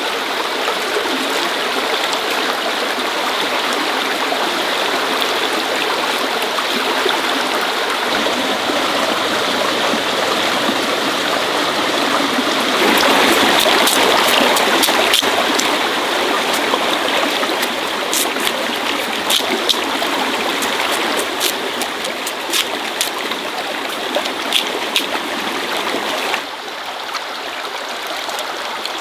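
Water running in a steady flow, louder for a couple of seconds around the middle, with scattered small clicks and knocks in the second half. The flow drops a little near the end.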